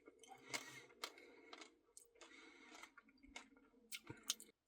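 Near silence with a few faint, brief clicks.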